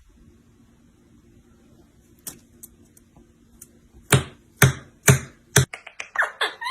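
Sharp knocks or taps: a few light clicks, then four loud evenly spaced knocks about half a second apart, followed by a quicker run of lighter taps near the end, over a faint steady hum.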